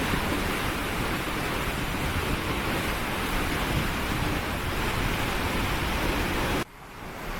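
Steady, loud rushing noise with no tones in it, cutting out abruptly about six and a half seconds in.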